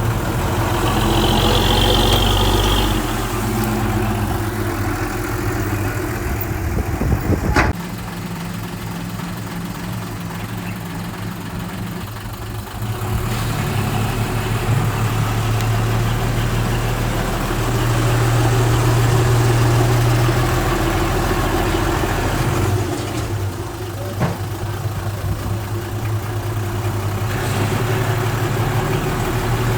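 Diesel engine of heavy earthmoving equipment running steadily, its loudness rising and falling as the load changes. There is a sharp knock about eight seconds in, after which the engine runs quieter for a few seconds.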